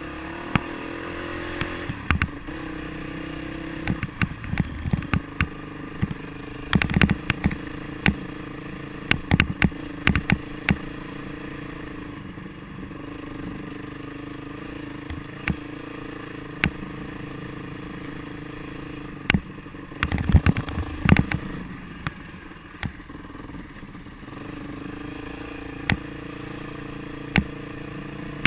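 Motorcycle engine running steadily while riding, with many short sharp knocks and rattles, most frequent in a cluster in the first third and again about two-thirds of the way through.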